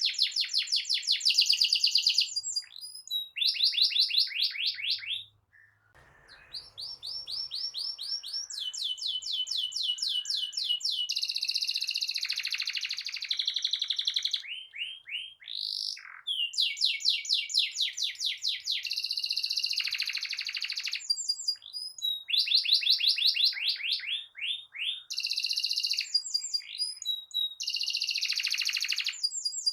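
Domestic canary in full song: fast rolling trills of rapidly repeated high notes, in phrases of a second or more separated by short pauses, with a brief silence about six seconds in.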